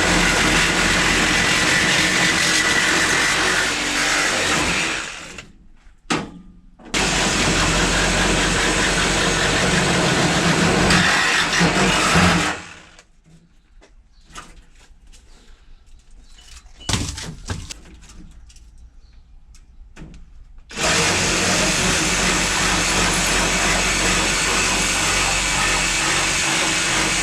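A loud motor running in spells. It cuts out about five seconds in, starts again about a second later, and stops again around twelve seconds in. A few faint knocks sound in the quieter gap, and the motor starts up again near twenty-one seconds.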